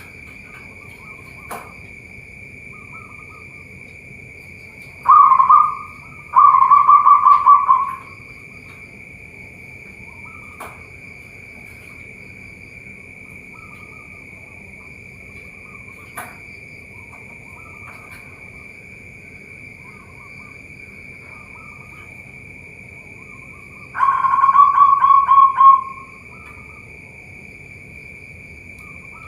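Zebra doves (perkutut) cooing. Three loud runs of rapid, pulsed coos come about five, seven and twenty-four seconds in, with fainter coos from other doves in between. A steady high-pitched tone runs underneath.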